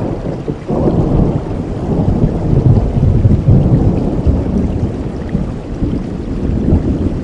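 Thunder rumbling over steady rain. The rumble comes in suddenly about a second in, is loudest in the middle and dies away near the end.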